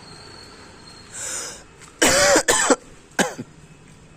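A man with a cold coughing: a breath in, then two hard coughs in quick succession and a third just after.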